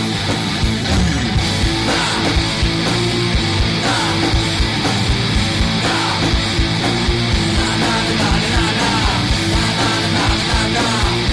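Instrumental passage of a loud heavy rock song, with distorted electric guitars over fast, steady drumming and no singing.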